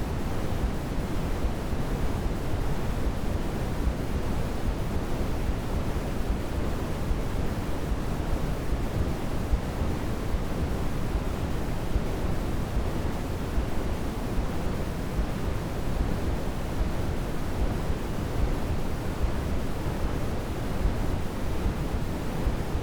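Steady white noise from a baby sleep-aid track: an even, unbroken hiss, deeper than pure white noise, weighted toward the low end, with no swells or changes.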